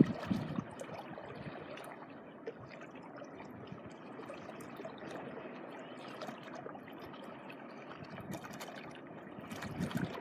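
Gentle shore water: small waves lapping and water trickling and crackling over the shoreline. A louder low rush fades out in the first half-second.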